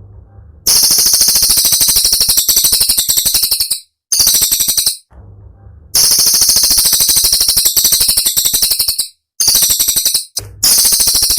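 A cililin singing its rapid, sharp, high-pitched trills (the 'tembakan' bird keepers prize), given in runs of about three seconds with short pauses between.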